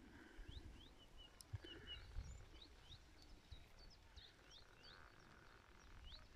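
Faint birdsong: a string of short, quick chirping notes repeated throughout, over a low, faint rumble.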